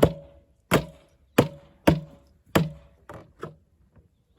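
Seven heavy blows struck one after another on a scrap water heater's shell, each leaving a short ring, the last two lighter.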